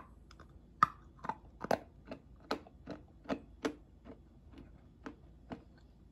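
Orion's cocoa cigarette candy stick being chewed, a run of about a dozen sharp, irregular crunches at roughly two a second, thinning out toward the end.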